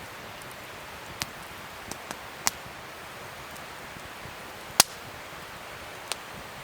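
Wood fire crackling: a steady soft hiss with about six sharp pops, the loudest a little under five seconds in.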